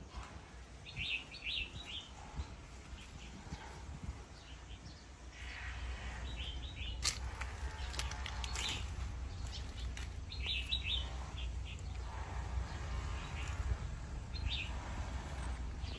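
Small birds chirping in short bursts, four or five times, over a steady low rumble, with a hiss that grows louder from about five seconds in and a single sharp click partway through.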